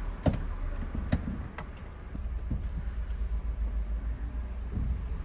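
Low wind and road rumble on the microphone of a moving motorcycle, with a few sharp knocks in the first two seconds.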